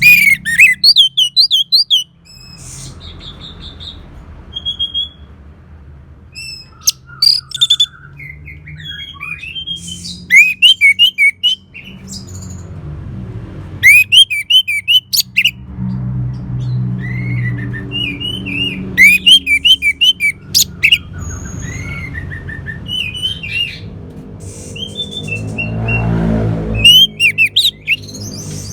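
Orange-headed thrush singing in bursts of fast, varied chirps and whistles, a few seconds apart, over a low steady hum.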